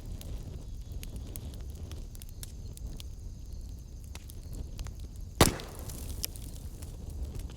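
Wood fire burning in a fireplace, crackling with scattered small pops over a low rumble, and one sharp, loud pop about five and a half seconds in.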